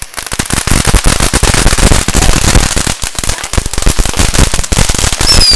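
A string of firecrackers going off in a fast, dense run of cracks that starts suddenly and keeps going. Near the end a high whistle falls in pitch over the crackling.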